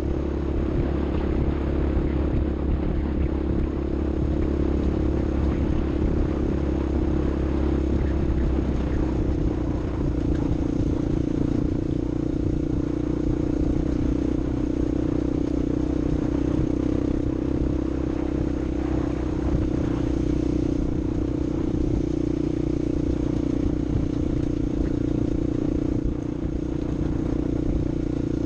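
A vehicle engine running steadily at fairly constant revs, with some rattling, for the whole stretch.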